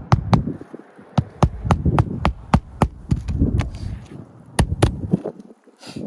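A run of sharp, irregular knocks, about two or three a second, from work on a brittle asphalt-shingle roof.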